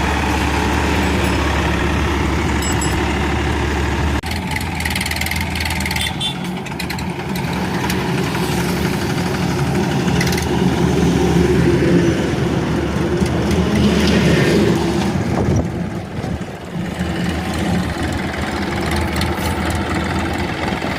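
Massey Ferguson tractor's diesel engine running, its note changing about four seconds in, getting louder a little past the middle, and dipping briefly later on.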